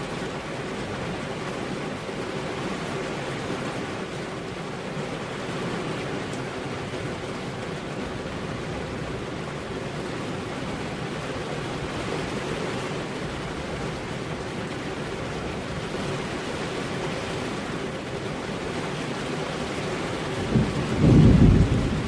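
Steady rain, with a low rumble of thunder breaking in near the end.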